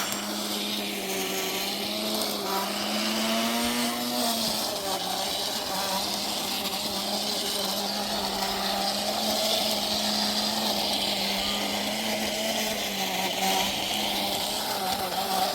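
A small engine or motor running steadily with a constant hum; its pitch rises briefly about three to four seconds in, then settles back.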